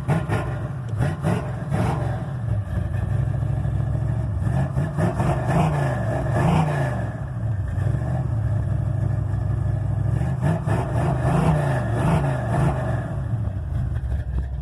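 Chevy 355 small-block V8 on a cold start in freezing weather, with long-tube headers and dual straight pipes to turbo mufflers dumped at the axle, running rough and struggling to hold idle. It is given several small blips of throttle, its pitch rising and falling, to keep it from stalling.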